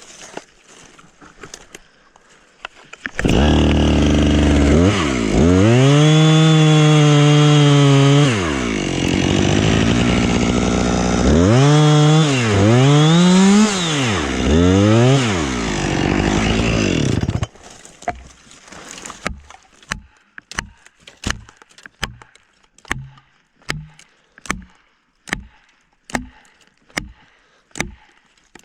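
Husqvarna chainsaw started up at high revs and cutting, its engine pitch dropping under load and rising again several times before it cuts off about two-thirds of the way through. Then a steady series of sharp knocks, about one a second.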